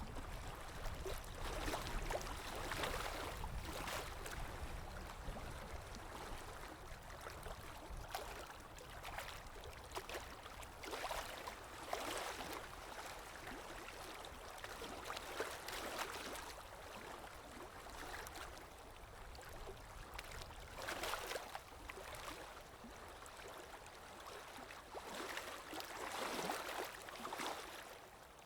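Underwater water ambience: a steady muffled wash of water with a low rumble, swelling into louder rushes of hissing water every few seconds.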